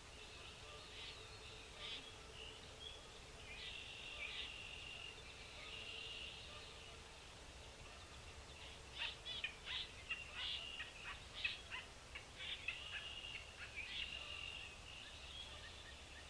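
Small birds chirping and twittering, with held notes and a run of quick, sharp chirps in the second half.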